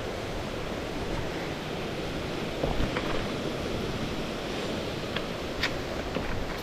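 Steady rushing of a flowing creek, with a few faint clicks about halfway through and again near the end.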